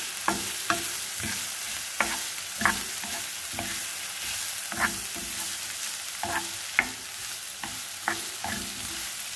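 Onion and ginger sizzling in oil in a frying pan while a utensil stirs them, knocking and clinking against the pan at irregular moments, some knocks ringing briefly.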